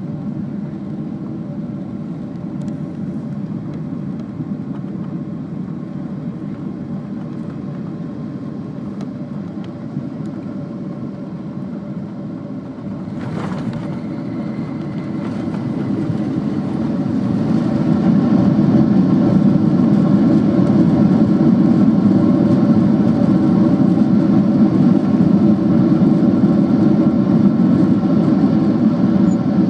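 Jet airliner cabin noise, a steady roar of engines and airflow heard from a window seat. About 13 seconds in there is a brief knock, and then the engine noise swells over a few seconds and stays louder, which fits touchdown followed by reverse thrust.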